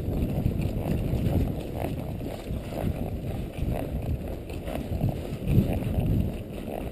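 Wind rumbling on the microphone, mixed with the movement sounds of a horse being ridden at a walk.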